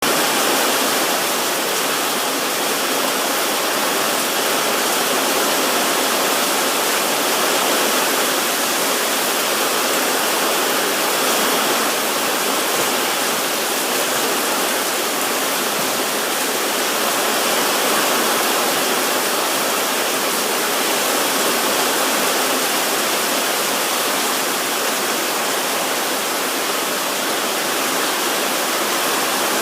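Heavy rain falling in a steady downpour, an even hiss that holds level throughout.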